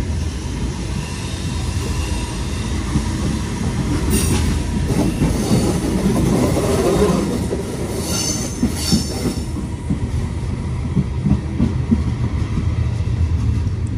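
Train running, heard from inside an old, unrefurbished Medie Distanze passenger coach: a steady, loud rumble of wheels on rails. Short high wheel squeals come about four seconds in and again around eight to nine seconds in.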